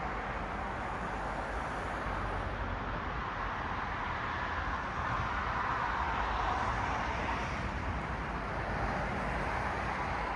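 Road traffic on a city street: a steady hiss of tyres and engines, swelling as a car passes about halfway through.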